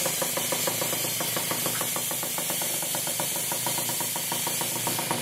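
Kawasaki KX65 dirt bike's small two-stroke single-cylinder engine idling with a steady, rapid pulse.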